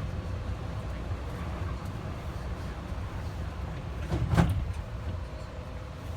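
Cabin rumble of the AeroTrain, a rubber-tyred automated people mover, running steadily along its guideway, with one brief louder thump a little past four seconds in.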